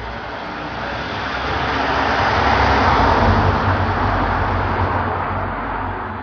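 London taxi driving past: engine hum and tyre noise swell to a peak about three seconds in, then fade as it moves away.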